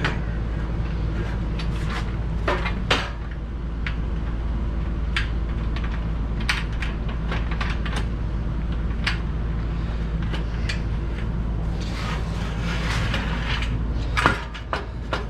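Scattered clicks, clinks and knocks of frame pieces being handled and fitted together while a CNC router table base is assembled, with a short scrape about twelve seconds in, over a steady low hum.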